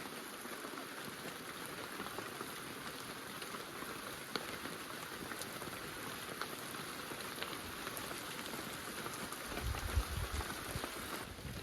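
Light rain falling: a steady soft hiss with scattered small drop ticks. A low rumble comes in for about two seconds near the end.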